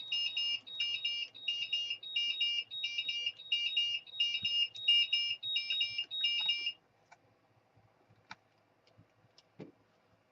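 Electronic beeper sounding a repeating pattern of high-pitched multi-tone beeps, about ten times in quick succession, then stopping about two-thirds of the way in. A few faint clicks follow.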